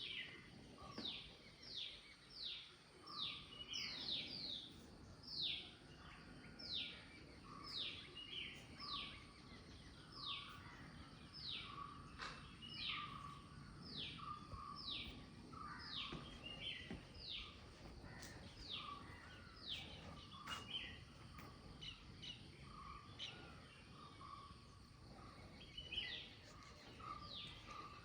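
A bird calling over and over, each note a short, sharp call sliding down in pitch, about one a second and sometimes in quick runs of three or four. A low, steady outdoor background noise runs underneath.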